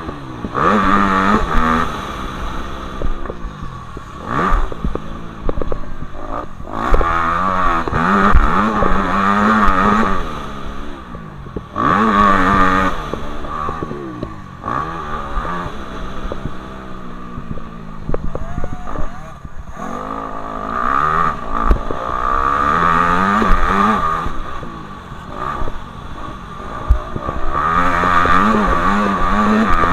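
Motocross bike engines revving up and dropping back again and again, swelling louder and fading as the bikes pass.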